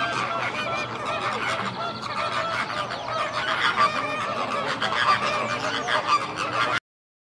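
Many birds calling over each other in a dense, continuous chorus of short honking calls. It cuts off abruptly near the end.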